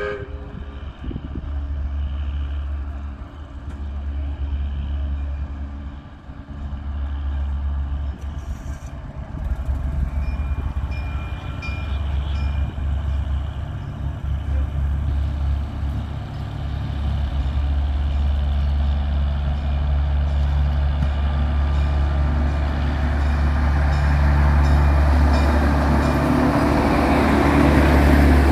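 Virginia & Truckee passenger train approaching on the adjacent track: a steady low rumble that grows louder, with the train passing close by near the end.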